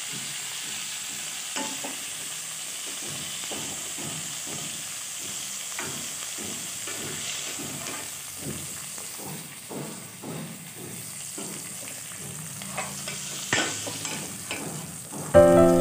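Fish heads sizzling in shallow hot oil in a kadai, with a metal spatula repeatedly scraping and tapping the pan as the fried heads are turned and lifted out. Music starts abruptly just before the end.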